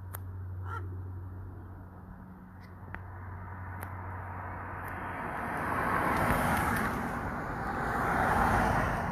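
Road vehicles passing on a street: two swells of tyre and engine noise in the second half, over a steady low hum.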